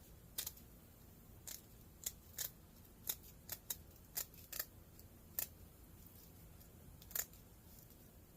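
Scissors snipping through window screen, a series of short separate cuts at an uneven pace, one louder cut near the end.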